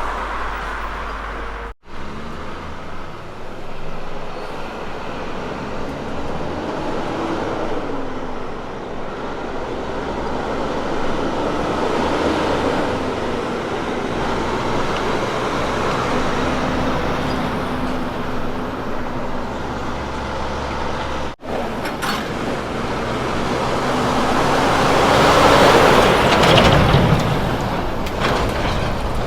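Kenworth K200 road trains running on the highway, their diesel engine notes rising and falling over tyre and road noise. A truck goes by loudest near the end, swelling up and then fading.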